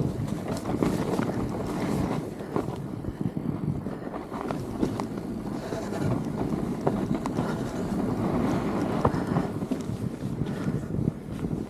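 Wind buffeting the microphone of a camera riding on a fat bike, with scattered short clicks and rattles from the bike going over the snowy trail.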